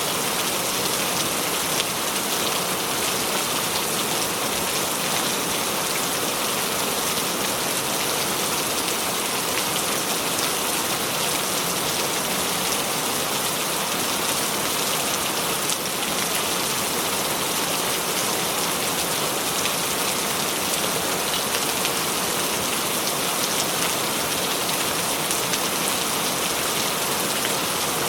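Steady rain, an even hiss of many drops that keeps the same level throughout, with no thunder.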